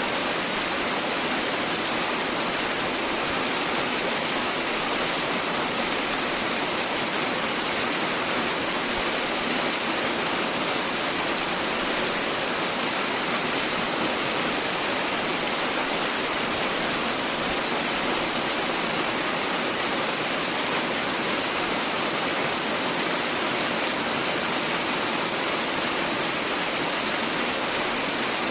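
Tiered mountain waterfall rushing steadily: an even, unbroken hiss of falling water.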